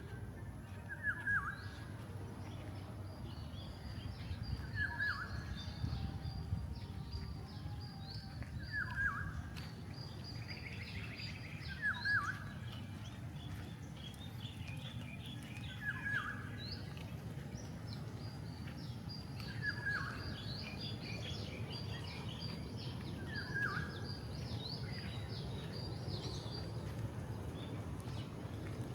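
Birds calling. One bird gives a short call that slides downward, seven times at about four-second intervals, while others chirp faster and higher, all over a steady low rumble.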